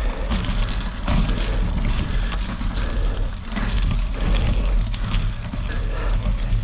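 Wind buffeting the microphone of a camera on the move, a heavy steady rumble, mixed with tyres crunching and rattling over a gravel road.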